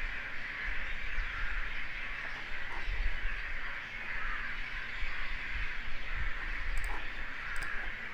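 Steady background hiss with an uneven low rumble, and a few faint clicks near the end.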